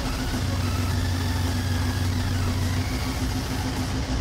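BMW X5's twin-turbo V8 idling steadily, with a low, even hum.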